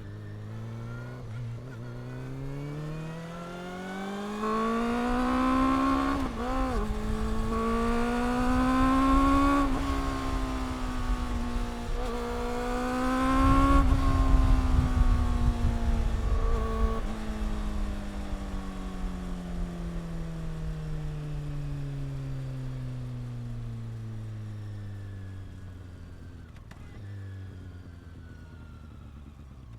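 Honda CB400 Super Four's inline-four engine and exhaust pulling up through the gears, its pitch rising with brief dips at shifts about 6, 10 and 13 seconds in. It then falls slowly and steadily as the bike slows down. Wind rumbles on the microphone around the fastest part.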